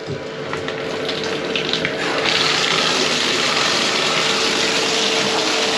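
Water running steadily from a tap, becoming louder and brighter about two seconds in as the flow picks up or starts hitting a container.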